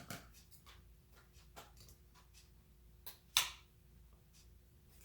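Scattered light clicks and crinkles of a piece of cardboard being cut and handled, with one louder sharp crunch about three and a half seconds in, over a faint steady hum.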